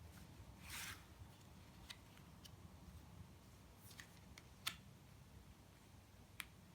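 Faint handling of tarot cards: a short soft slide about a second in, then a few light clicks and taps as cards are turned over and laid down, the sharpest about two-thirds of the way through.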